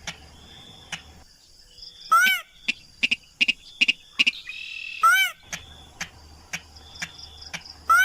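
Lure-call recording of a paddy-field rail (sintar): loud short calls that rise and fall in pitch, repeated about every three seconds, with quick sharp ticking notes between them. A steady high insect trill runs in the background at times.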